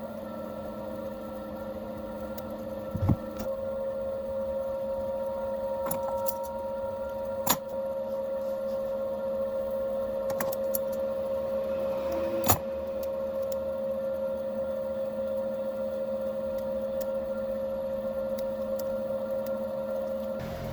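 A small electric motor running steadily with a constant hum, its tone settling and firming a few seconds in. Three sharp knocks sound over it, several seconds apart.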